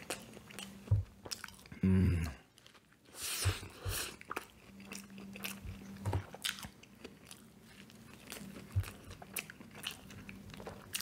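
Close-miked biting and chewing of a McDonald's Junior Chicken sandwich: wet mouth clicks and crunches of the breaded chicken. A louder low burst comes about two seconds in, and a longer crunch follows about a second later.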